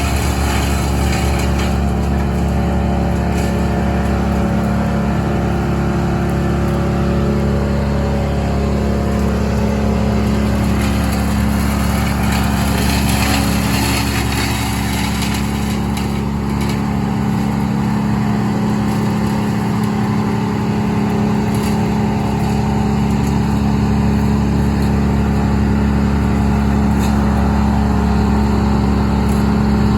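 A large engine running steadily at an even pitch, easing off slightly about halfway through before returning.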